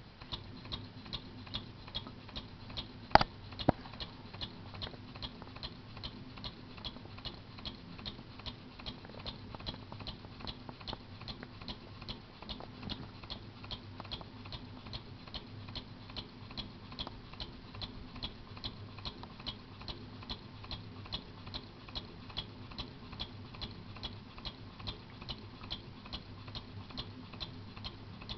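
Scratch-built model stationary engine running on a gas mixture, with an even ticking about twice a second over a low steady hum. One sharper click comes about three seconds in.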